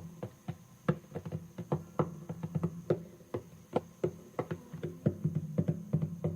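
Acoustic guitar playing an instrumental passage of quick plucked single notes, each ringing briefly, over a sustained low bass note.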